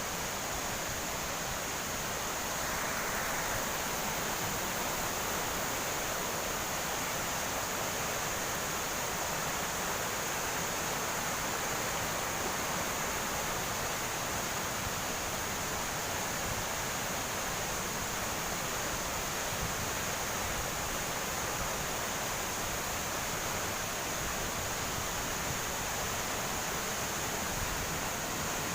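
A tall waterfall, about 98 feet high, falling steadily: an even, unbroken rushing noise.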